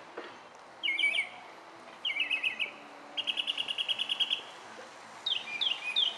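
Small birds calling in bursts of rapid chirps: a short phrase about a second in, fast runs of chirps around two and three seconds in, and a series of sharp falling chirps near the end.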